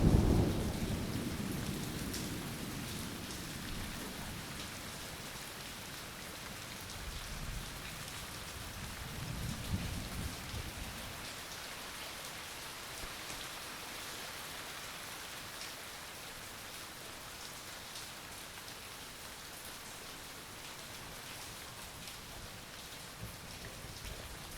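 Steady rain falling, with a loud thunder rumble at the start that fades over a few seconds, and a second, fainter rumble about ten seconds in.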